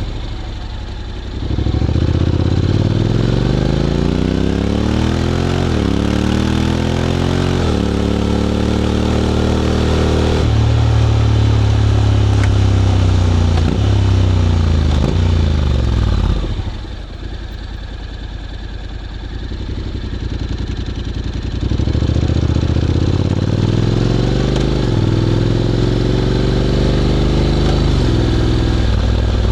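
Honda X-ADV 750's 745 cc parallel-twin engine through an SC-Project titanium slip-on exhaust, ridden. It pulls away from idle, rising in pitch through quick gearshifts by its dual-clutch gearbox, holds speed, steps back down and idles for several seconds, then accelerates again through more upshifts near the end.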